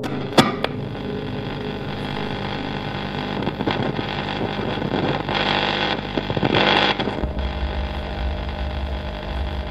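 A steady machine-like hum with a sharp click about half a second in and two louder hissing swells midway, giving way to a deep, throbbing low hum near the end.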